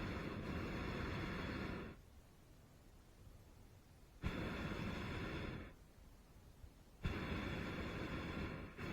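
Hot air balloon's propane burner firing in three blasts. The first runs about two seconds from the start, the second starts about four seconds in and lasts under two seconds, and the third begins about seven seconds in. Each blast opens with a sharp click as the valve opens.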